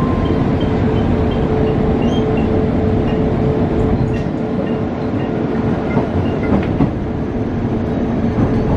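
Running noise heard inside a moving passenger train: a steady rumble and hum, with a few wheel clicks over the rail joints in the second half.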